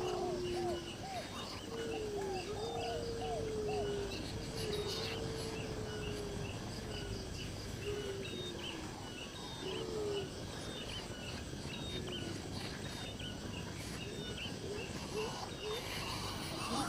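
Birds calling outdoors. A quick string of short arched calls at the start is followed by several longer, low calls that slide down in pitch. A high, short chirp repeats evenly about twice a second throughout.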